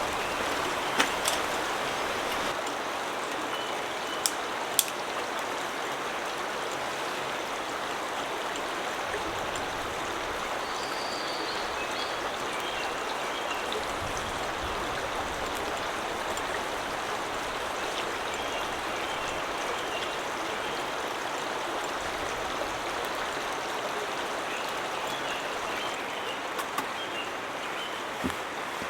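Steady rushing of stream water, with a few short sharp knocks in the first five seconds and one more near the end.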